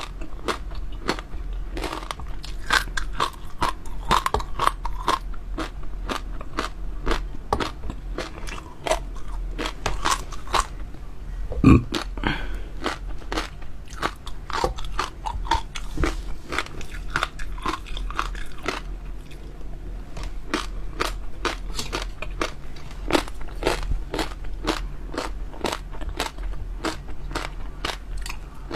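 Close-miked chewing and biting with many crisp, irregular crunches and crackles, and one heavier thud about twelve seconds in. A steady low hum runs underneath.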